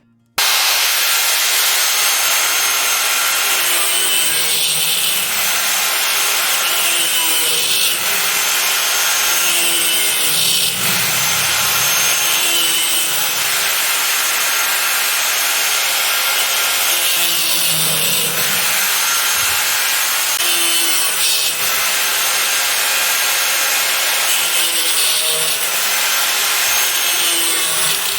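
A saw cutting through the steel rods of a refrigerator wire shelf, a loud continuous rasping with no pauses.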